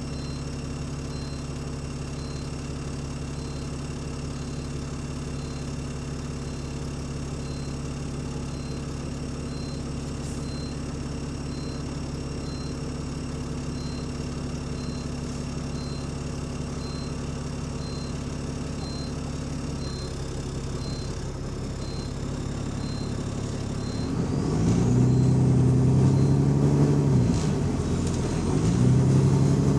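Bus's diesel engine, which has an exhaust leak, idling steadily with a faint regular tick about one and a half times a second. Near the end the engine pulls away, its pitch rising and falling twice as it gets louder, with a high whine climbing above it.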